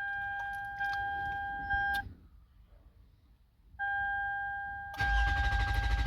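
A steady electronic warning tone from the dash sounds, drops out for about two seconds and comes back. About five seconds in, the 2008 Toyota Sienna's 3.5-litre V6 cranks and catches and runs with a loud low rumble: a successful start with a copy key in the ignition.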